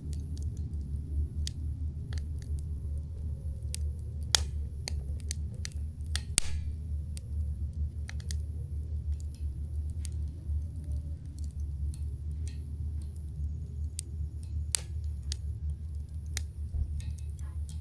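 Campfire crackling: irregular sharp pops and snaps of burning wood over a steady low rumble, the loudest pops about four, six and fifteen seconds in.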